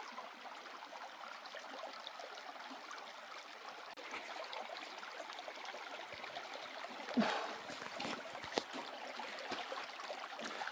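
Steady rush of running water, with a short knock about seven seconds in and a sharp click shortly after.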